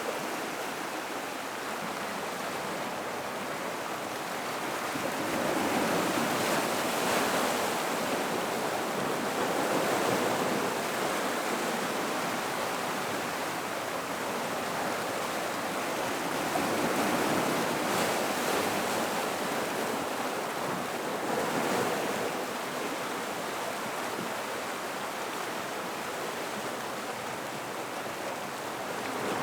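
Gentle ocean waves washing over the rocks of a rock pool, a steady rushing that swells louder twice before easing back.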